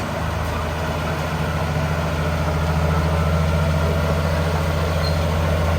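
Heavy diesel engine of earthmoving machinery running steadily at low speed, gradually growing louder.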